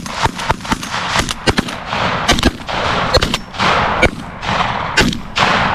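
A rapid volley of shotgun shots from several hunters firing at once at a flock of geese, many blasts close together and overlapping, some echoing between shots.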